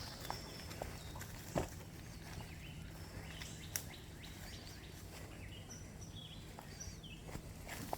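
Small birds chirping and calling, short high notes scattered through, over a low outdoor background, with a few sharp clicks and snaps, the loudest about a second and a half in.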